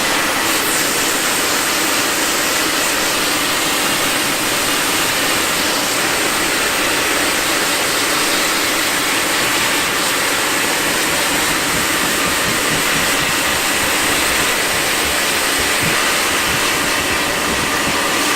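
Pressure washer spraying water onto a car body: a loud, steady hiss of spray over the hum of the washer's pump, unbroken throughout.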